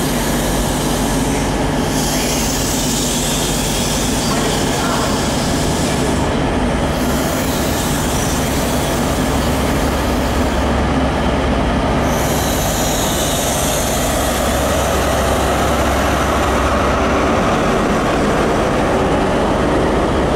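High Speed Train coaches rolling slowly past as the train brakes for its stop, with high-pitched squealing from the wheels and brakes that comes and goes. A low diesel hum grows toward the end as the rear power car goes by.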